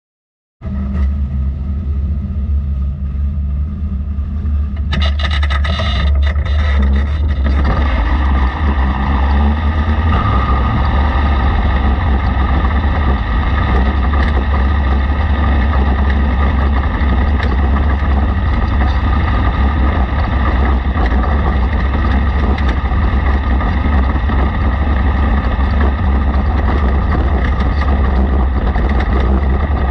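Racesaver sprint car engine running loud and steady, cutting in abruptly about half a second in and building a little over the first few seconds before holding steady.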